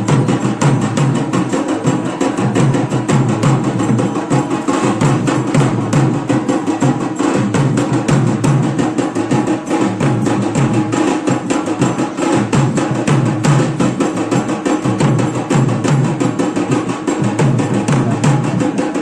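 Loud, steady percussion music led by drums, with fast, sharp, evenly repeated strokes.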